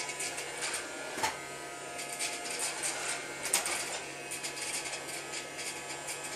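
A small child's vacuum cleaner running with a steady buzzing motor whine, with scattered light knocks and clicks as it is pushed about; the sharpest knock comes about three and a half seconds in.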